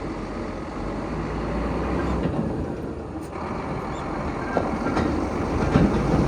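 Scania P114 dump truck's diesel engine running steadily, with a few light knocks in the second half.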